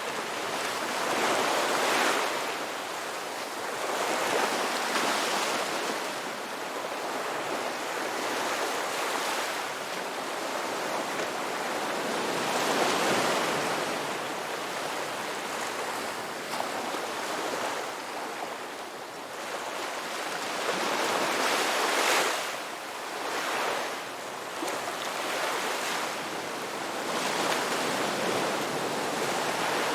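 Ocean waves breaking and washing on a beach, a steady rush of surf that swells and falls back every few seconds.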